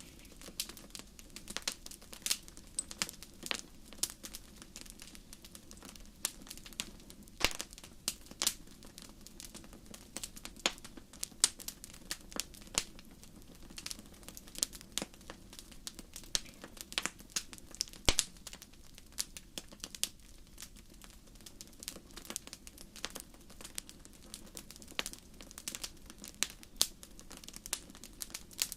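Wood fire crackling: irregular sharp pops and snaps, several a second and uneven in strength, over a steady low rumble.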